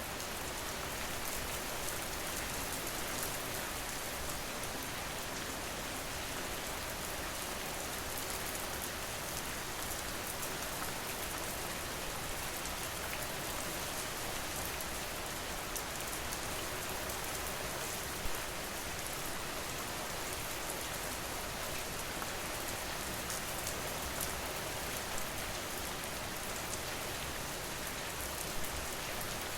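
Steady, even rain falling on a surface, with a few louder individual drops near the middle and end.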